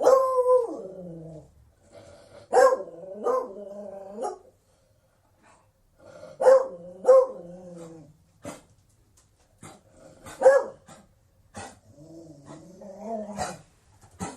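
Beagle barking in a series of drawn-out, bending calls, one group every few seconds, with short sharp sounds between the groups.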